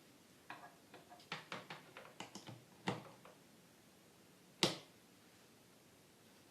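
A run of small clicks and knocks from handling the repaired espresso machine and its power cord as it is plugged in for a test. About four and a half seconds in comes one sharp, louder click.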